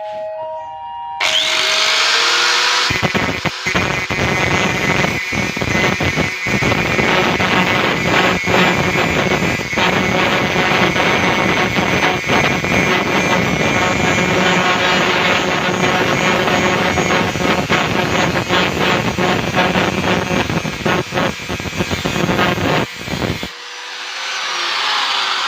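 Handheld angle grinder spinning up about a second in, then grinding steadily against metal with a few brief catches, and stopping near the end as it winds down.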